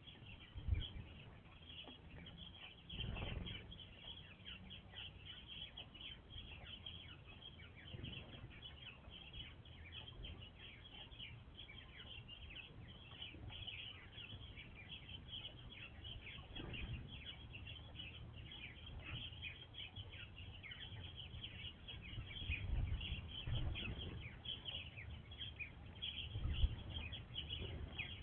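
Backyard songbirds chirping and twittering continuously, many short high chirps overlapping, with a few low thumps and rumbles beneath.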